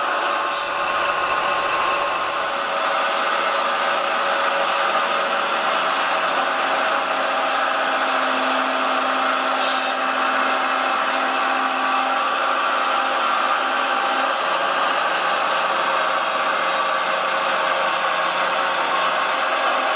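Remote-control model construction machine running, its electric drive motors and gearing giving a steady whine with a lower hum that shifts slightly a few times.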